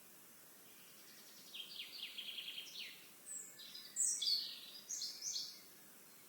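A songbird singing one lively phrase of quick trilled notes that climb into higher sliding notes, starting about a second and a half in and stopping about a second before the end, over a steady outdoor hiss.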